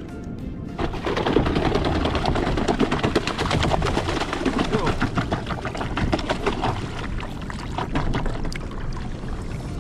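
A freshly landed small yellowfin tuna beating its tail against the kayak hull: a fast, irregular rattle of knocks that starts about a second in and keeps going.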